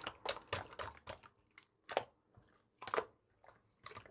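Typing on a keyboard: about ten separate keystroke clicks at an uneven pace, with short pauses between them.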